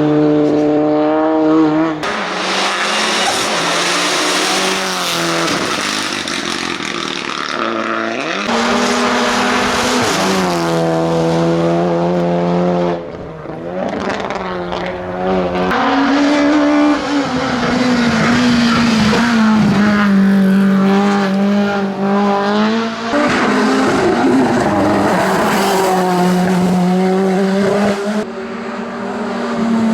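Hillclimb racing cars at full throttle, engines revving up and dropping back with each gear change. It comes as a string of runs, one car after another, with the engine note changing abruptly between them.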